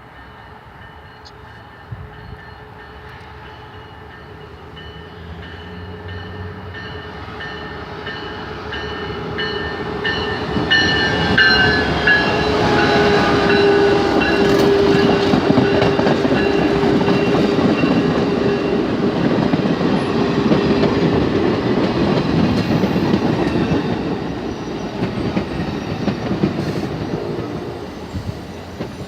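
Amtrak diesel passenger train approaching and passing at speed, its horn sounding with several steady tones that drop in pitch as it goes by. The rumble of the wheels builds to its loudest in the middle, then fades as the train recedes.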